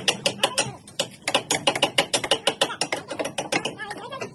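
Rapid, overlapping sharp knocks of hammers nailing timber slab shuttering, several strikes a second, thinning briefly about a second in and again near the end.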